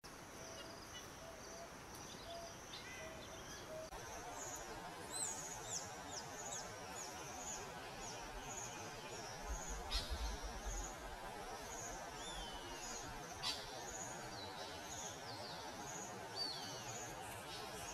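Wild birds calling over a steady outdoor hiss: short high chirps repeated about twice a second, with a few falling whistles, and a run of low short notes in the first few seconds.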